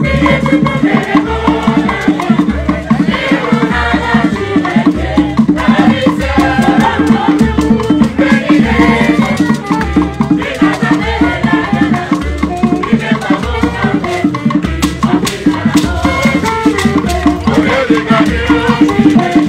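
Live ogene band music: singing over a steady beat of bass, rattles or shakers and percussion.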